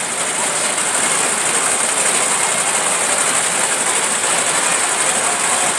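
Parade tractors and vehicles running as they pass, a steady engine noise mixed with a constant high hiss.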